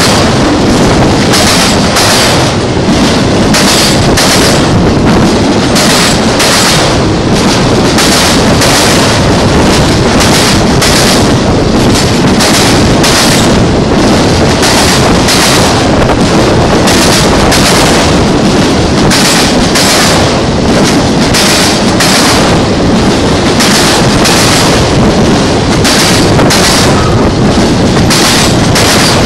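Freight train of autorack cars passing at speed a few feet away: loud, steady wheel-on-rail noise and car rattle, with regular pulses as the wheelsets roll by.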